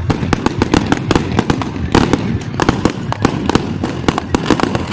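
Fireworks going off in a rapid, loud barrage of many sharp bangs and crackles, several a second.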